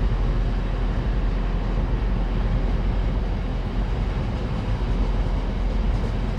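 A train running through the station: a steady rumble with an even rushing noise over it.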